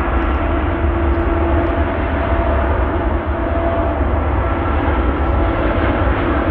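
Jet airliner engines running loud and steady, a dense rumble with faint whining tones over it.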